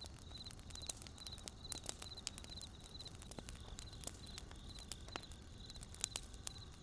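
Wood campfire crackling: irregular sharp pops and snaps over a low steady hiss, with louder pops a couple of seconds in and near the end. A high chirping repeats about twice a second behind it.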